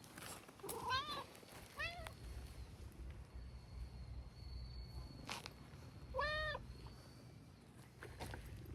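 Domestic cat meowing three times: two short meows about a second in and just before two seconds, then a longer, louder arched meow around six seconds.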